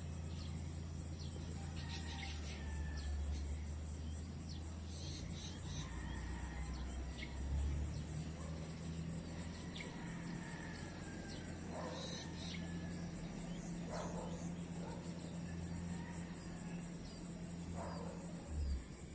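Crickets or other insects trilling steadily with scattered short bird chirps, over a low steady drone that shifts in pitch now and then.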